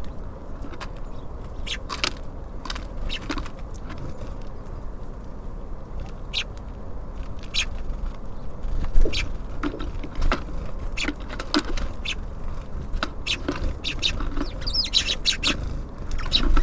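Small birds at a feeder giving short, scattered chirps, coming thicker and faster near the end, over a steady low rumble.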